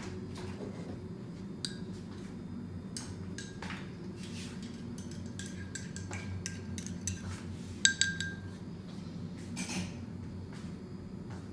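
Dishes and glassware being handled: scattered light knocks and clinks, with one louder ringing clink about eight seconds in, over a steady low hum.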